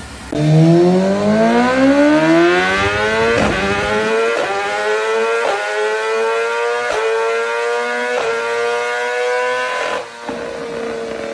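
High-revving superbike engine accelerating hard: it comes in suddenly, climbs steeply in pitch for a few seconds, then holds at high revs with a sharp crack about every second. The level drops off near the end while a steady high note carries on.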